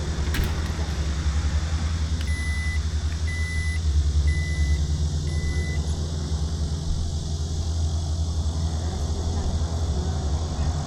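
Steady low rumble of a car, with four short electronic beeps of one pitch about a second apart, starting about two seconds in.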